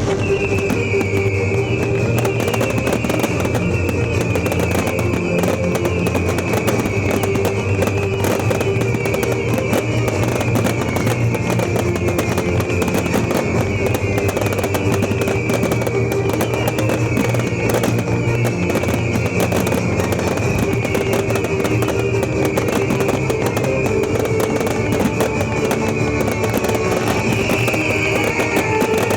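Music played over loudspeakers for a fireworks show, with fireworks crackling and popping underneath at an even level.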